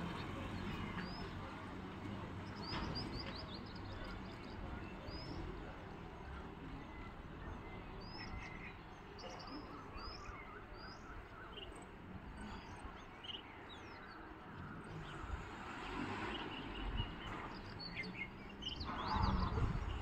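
Small birds chirping faintly: scattered short, high chirps over steady outdoor background noise, which grows louder in the last second or so.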